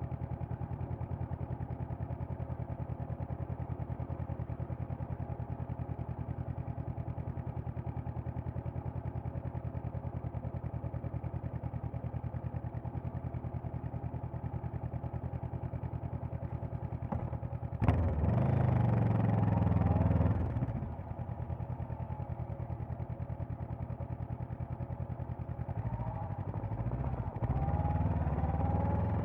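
Honda CB500X's parallel-twin engine idling with an even pulse. About two-thirds of the way in it revs up loudly for a couple of seconds and drops back. Near the end it revs again with rising pitch as the bike pulls away.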